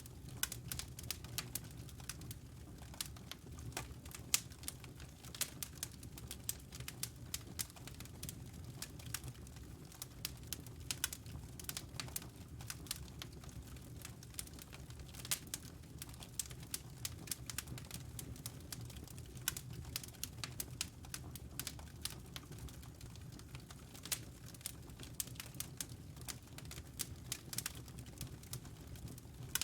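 Wood fire in a fireplace crackling: irregular sharp pops and snaps over a soft, steady low rumble of the flames.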